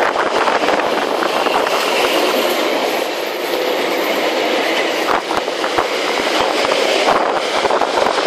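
Train of passenger carriages rolling past at close range, wheels clattering on the rails.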